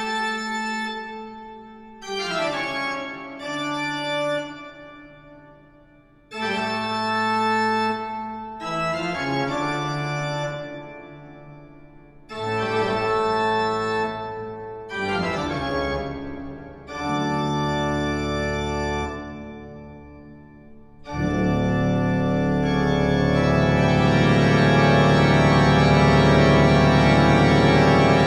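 Classical organ music: a run of short phrases of held chords, each dying away into a brief pause, then a loud full chord sustained over the last quarter.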